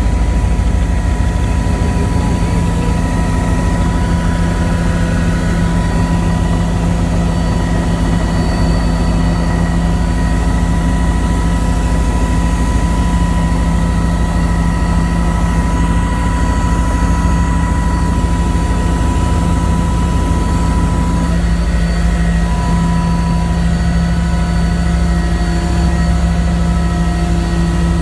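Helicopter in flight, heard from on board: a loud, steady drone of rotor and engine with a few held tones over a low rumble.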